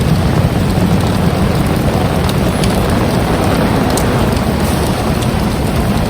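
Heavy rain falling steadily, with a strong low rumble of wind buffeting the microphone and scattered drops ticking.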